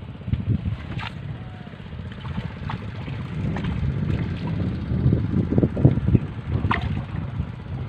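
Wind gusting on the microphone, a fluctuating low rumble, with a couple of brief sharp sounds about a second in and near the end.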